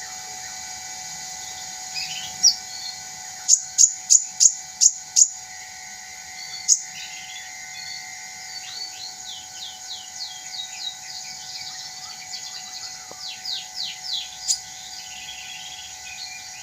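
A sunbird calling: a quick run of six sharp, high chips a few seconds in, then fast series of short downslurred high notes in the second half.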